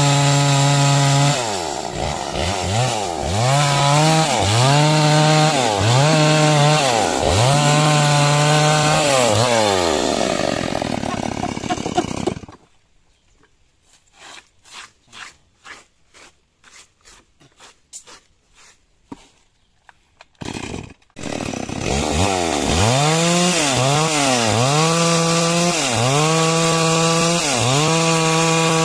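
Chainsaw cutting timber lengthwise into beams, its engine pitch dipping under load and recovering again and again. About 12 seconds in the saw winds down and stops. There are several seconds of quiet with faint scattered taps, then the chainsaw comes back in at full cutting speed.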